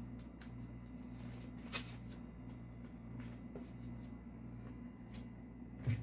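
Scattered small clicks and rustling handling noises over a steady low electrical hum, with a sharper click about two seconds in and another near the end.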